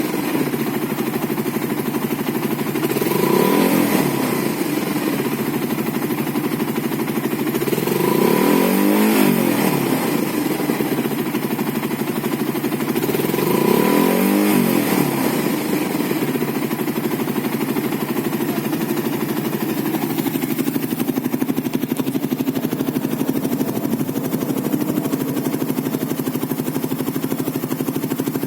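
Fuel-injected Suzuki Satria FU 150 single-cylinder engine running through a WRX GP5 V2 aftermarket exhaust: three short revs about five seconds apart, each rising and falling back, then a steady idle.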